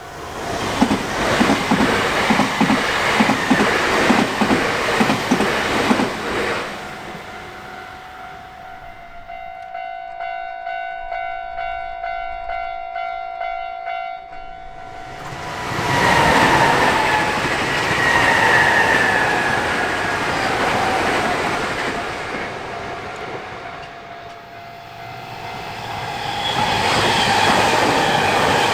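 Nankai Main Line trains passing a level crossing. For the first six seconds a train goes by with rhythmic wheel clatter over the rail joints. In the middle the crossing's electronic warning bell rings on its own at about two strikes a second. A second train passes from about sixteen seconds in with a falling whine, and another train draws near at the end.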